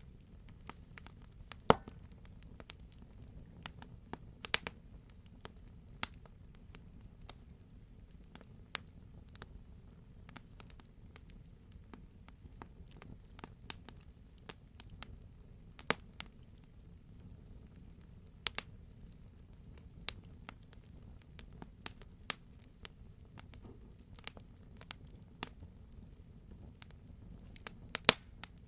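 Campfire burning with irregular sharp crackles and pops of burning wood over a low steady rumble. The loudest pops come about two seconds in and near the end.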